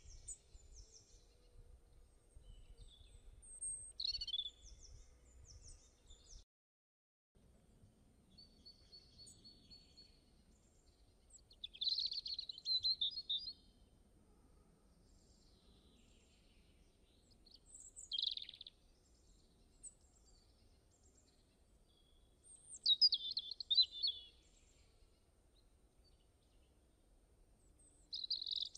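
Birds chirping: short bursts of high chirps and quick sweeping calls every few seconds over a faint low hum, with a brief cut to total silence about six and a half seconds in.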